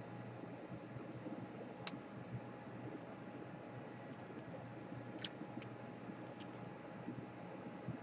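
Faint, sparse clicks and ticks of small parts and tools being handled inside an opened laptop during disassembly, over a steady low hum; the sharpest click comes about five seconds in.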